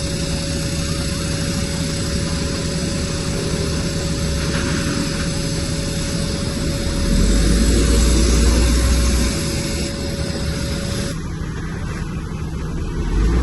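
Heavy diesel engine of earthmoving machinery running steadily under load. A deeper low rumble swells for a couple of seconds about halfway through, then eases.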